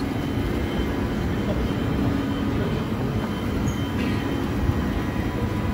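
Transperth electric suburban train running, a steady rumble with a low hum that fades out about halfway through.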